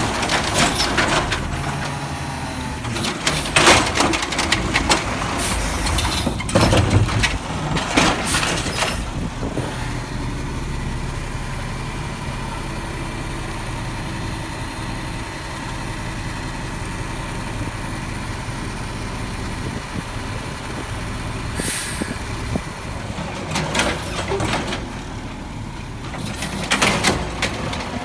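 Garbage truck's diesel engine running, with a string of loud bangs and clatters in the first several seconds and again near the end, and a short air hiss about two-thirds of the way through.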